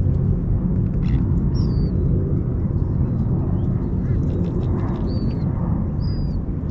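A steady low rumble with several short, high whistled bird calls over it, each sliding slightly in pitch.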